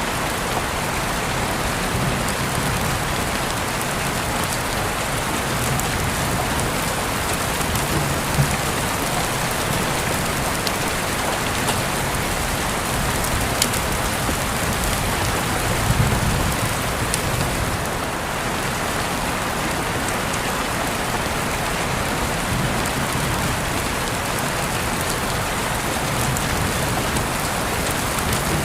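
Steady rain falling on a surface, a constant hiss with scattered sharper drop ticks. A brief low rumble comes about sixteen seconds in.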